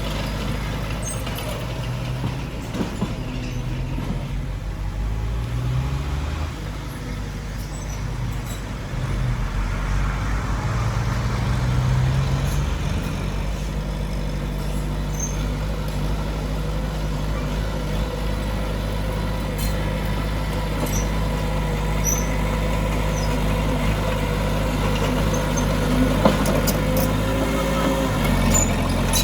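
Heavy diesel engine of earthmoving machinery running, its note rising and falling a few times in the first half as it works, with occasional clicks and knocks.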